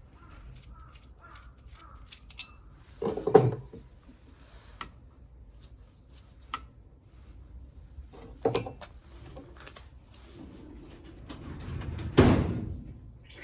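Metal tools and scooter engine parts clanking and knocking while the engine is being taken apart: a handful of separate knocks, the loudest near the end.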